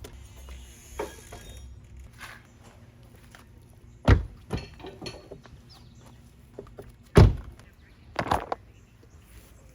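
A few dull thunks and knocks, two heavy ones about four and seven seconds in with lighter knocks after each: rubber car floor mats being pulled out and dropped.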